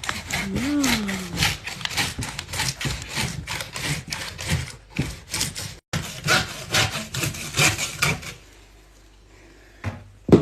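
Fast, repeated rasping strokes, several a second, like sawing or scraping. They break off briefly about halfway, then stop near the end.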